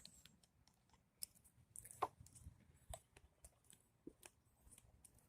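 Near silence, broken by a few faint scattered clicks and light knocks.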